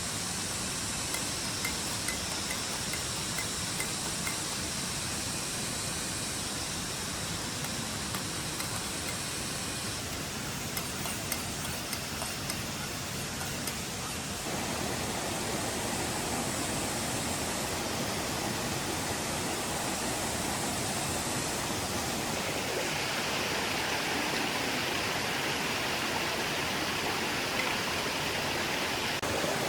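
Steady rushing outdoor noise that shifts in character abruptly about ten seconds in, again about fourteen seconds in, and once more a little past twenty seconds.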